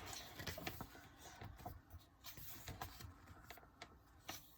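Faint rustling and light clicks of a photo book's glossy pages being turned and handled.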